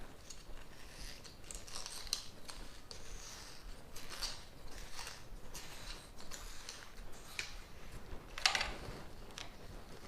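Fireproof fibre-blanket lining inside a tin being cut and dug out at the burner holes, heard as irregular scratchy cutting strokes. One stroke about eight and a half seconds in is louder than the rest.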